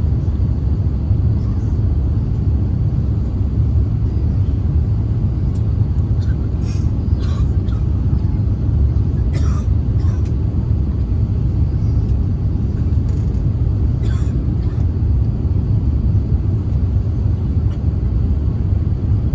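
Cabin noise inside an Airbus A350-900 airliner in flight: a steady low rumble of engines and airflow. A few brief faint clicks come through in the middle.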